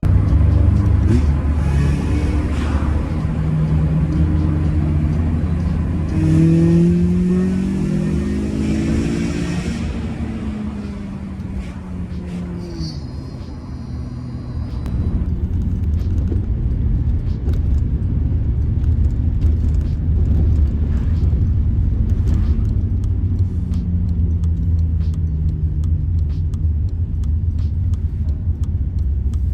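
Honda Civic Type R FN2's 2.0-litre K20 four-cylinder engine being driven over a steady low road rumble, its airbox cut open for more intake noise. The engine note climbs in several pulls over the first ten seconds or so, drops back, and rises again later on.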